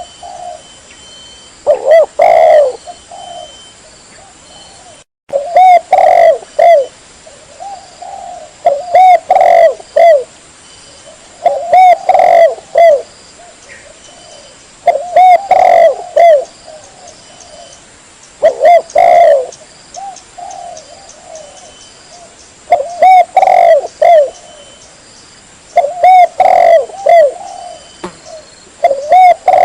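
Spotted dove (tekukur) cooing, a lure-call recording: phrases of several short coos, repeated about every three seconds. A brief dropout comes about five seconds in.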